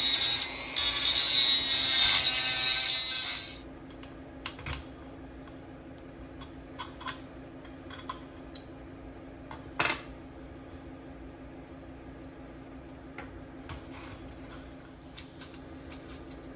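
A power tool runs with a harsh, hissing grind and stops about three and a half seconds in. Then small metal parts click and clink lightly, with one sharper ringing clink about ten seconds in.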